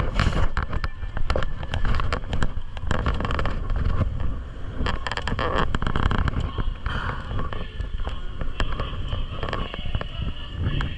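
Dirt bike engines running, with many sharp crackles and pops throughout.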